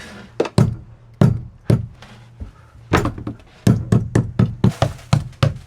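Knocks on a plywood-and-epoxy boat panel, tapped to hear how solid it sounds: a few separate knocks, then from about two-thirds of the way in a quick run of about three or four a second.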